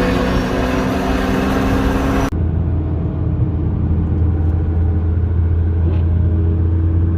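Car engines and exhaust running steadily as cars drive off; about two seconds in the sound cuts abruptly to a single deeper, steady low drone.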